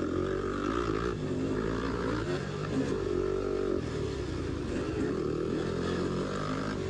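A 250cc dirt bike's engine running under load, its pitch rising and falling as the throttle opens and closes through the trail.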